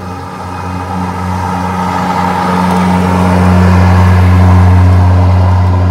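EGO 56-volt Select Cut battery lawn mower running with its blades spinning in mulching mode: a steady low electric hum with a rushing whir of air above it, growing louder about halfway through.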